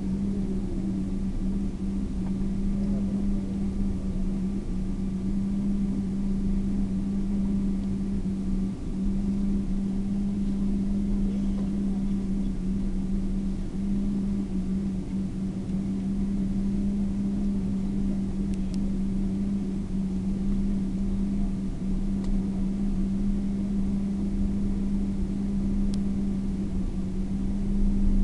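Cabin noise inside a Boeing 777-200 on the ground after landing: a steady rumble with a constant low hum.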